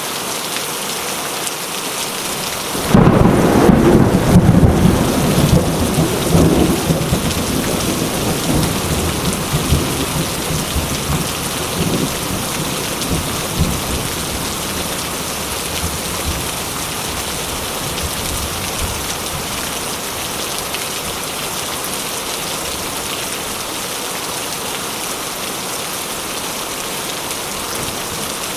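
Steady rain, with a sudden clap of thunder about three seconds in that rumbles on and fades away over the next ten seconds or so.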